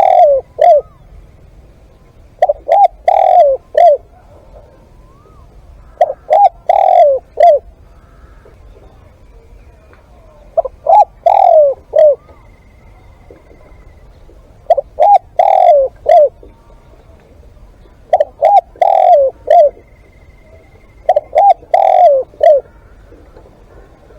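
Spotted dove cooing: short phrases of four or five coos, repeated about every three to four seconds.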